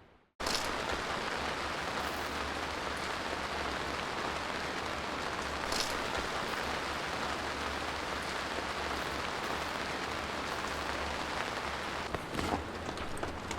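Steady, heavy rain that cuts in suddenly about half a second in, with a few light taps near the end.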